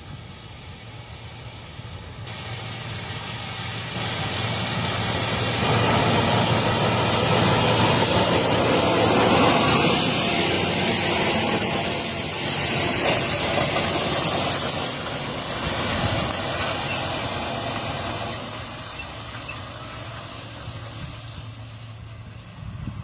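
Heavy tractor engine running hard under load, a loud engine note under heavy rushing hiss. It builds over the first several seconds, is loudest in the middle and eases off near the end.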